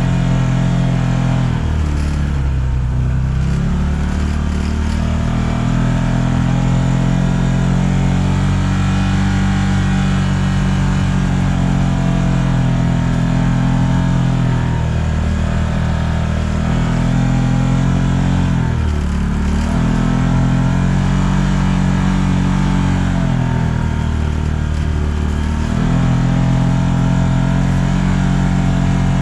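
A vehicle engine running steadily, its pitch dropping and climbing again several times as it slows and speeds up.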